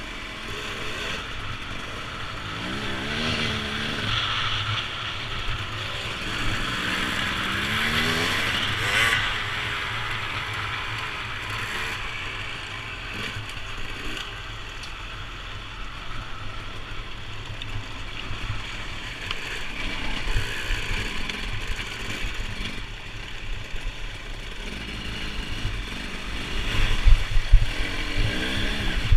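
Motorcycle engine running and revving, its pitch rising and falling a few times, over a steady rushing noise, with a run of loud knocks near the end.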